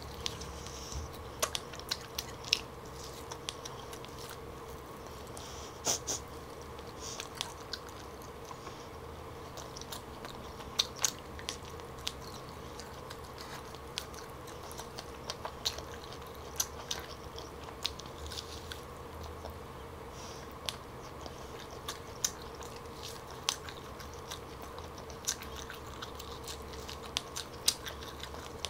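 Close-up chewing and biting of smoked turkey leg meat, with many short, sharp mouth clicks scattered throughout over a faint steady hum.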